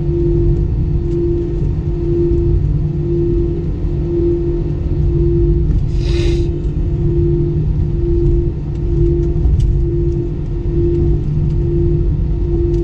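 Airbus A320 cabin noise with the jet engines running: a loud, steady low rumble under a droning tone that wavers in a regular beat about once or twice a second. A short higher-pitched sound cuts in about six seconds in.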